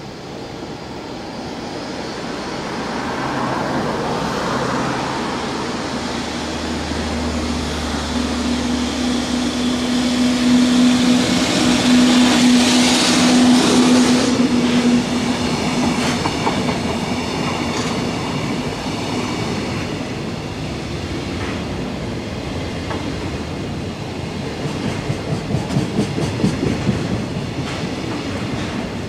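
Electric freight train passing under the bridge: a steady hum and drone as the locomotive comes through, loudest about halfway, then a long string of container wagons rolling by, with regular clickety-clack of wheels over rail joints near the end.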